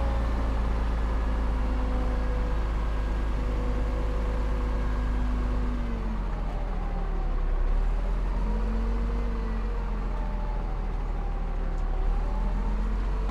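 Heavy diesel earthmoving machinery running with a deep, steady rumble, the engine pitch dipping and rising several times as it works.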